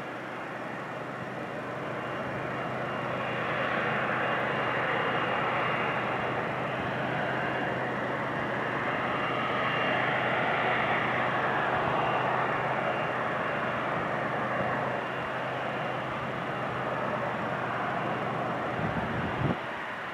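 Jet engines of an Airbus A330-300 running on the ground: a steady rushing noise with a thin high whine, growing louder over the first few seconds and easing slightly later on. A short knock comes just before the end, after which the sound drops.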